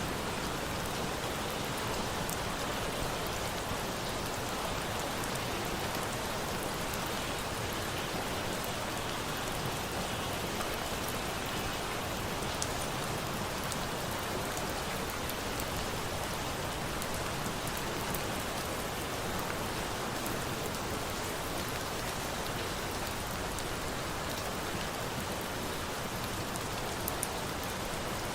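Steady rain falling, mixed with a campfire, with a few faint sharp crackles scattered through it.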